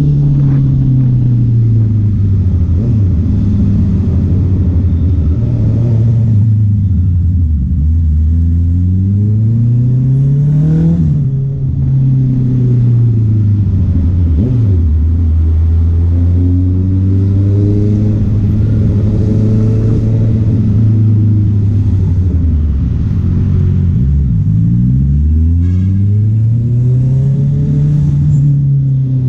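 Honda CB650R's inline-four engine running under way, its pitch rising and falling with the throttle: several climbs and drops in revs between long stretches at a steady engine speed.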